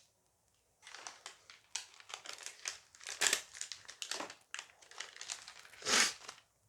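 A foil booster pack crinkling as it is handled and opened: a rapid, irregular run of rustles starting about a second in, loudest near the end.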